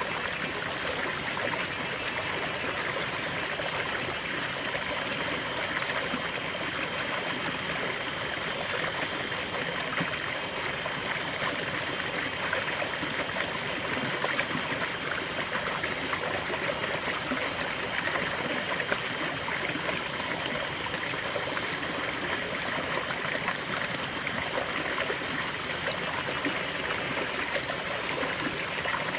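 Small forest waterfall and stream: water flowing and splashing over rocks in a steady rush, with fine trickling and gurgling detail.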